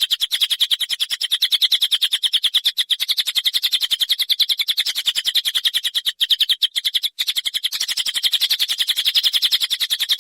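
Songbird tutor recording: a long, high-pitched, harsh rasping rattle made of very rapid pulses, about a dozen a second, with a few brief breaks near the middle. It is the rough rasping kind of masteran song that bird keepers call besetan kasar.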